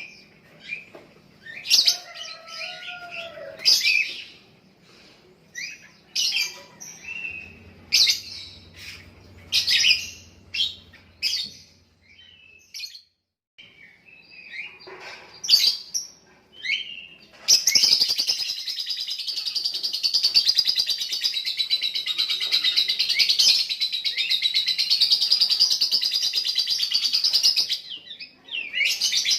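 Young lovebird giving sharp, high chirps, then about halfway through breaking into one long unbroken rapid chatter lasting about ten seconds: the 'ngekek' song that lovebird keepers prize. It goes back to single chirps near the end.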